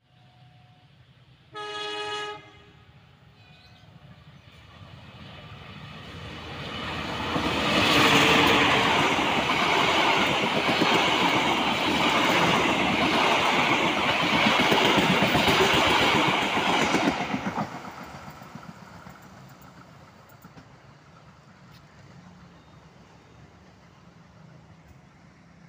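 A train horn sounds once, briefly, about two seconds in. Then a passenger train approaches and passes close by, its wheels and carriages loud on the rails for about ten seconds, before the noise drops off quickly and fades away.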